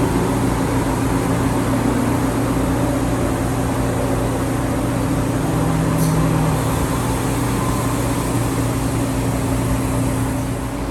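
Steady running noise inside a TexRail diesel multiple-unit train: a low engine hum over a rumble. There is one brief click about six seconds in.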